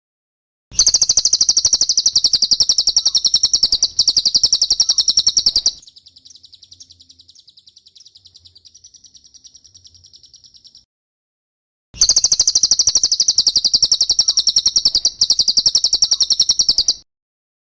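Cililin singing a rapid, high-pitched trill of fast repeated notes, in two long loud bursts of about five seconds each. Between them comes a quieter stretch of the same trilling, then a short pause.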